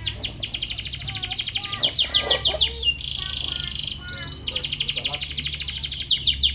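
Canary singing: a fast run of high, downward-sweeping notes, about six a second, broken near the middle by a buzzy trill of about a second before the sweeping notes resume, over a steady low hum.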